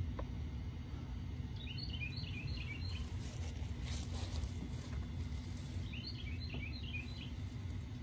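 Birds chirping in two short bursts of quick high calls, about two seconds in and again about six seconds in, over a steady low outdoor rumble with a faint hum.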